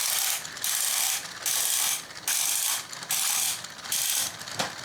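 Battery-powered Plarail toy mechanism whirring through its plastic gears with a ratcheting sound, in about six even stretches with short breaks.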